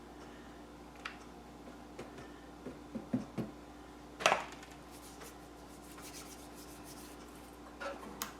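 Scattered light taps and knocks of craft materials being handled on a tabletop, with a louder brief scrape or rustle about four seconds in.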